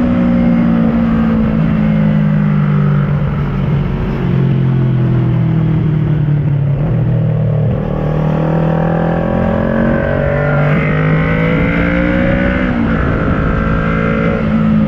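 2010 Kawasaki ER-6n's parallel-twin engine running through an SC Project carbon slip-on exhaust while riding. The engine pitch falls over the first few seconds, climbs again from about halfway, then drops abruptly at a gear change near the end.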